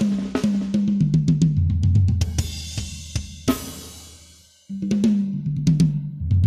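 Drum kit played with a fill that steps down across three tuned rototoms, mixed with sharp snare and hi-hat strokes. It ends in a cymbal crash about three and a half seconds in that rings out and fades. After a brief stop near five seconds, the same falling tom run starts again.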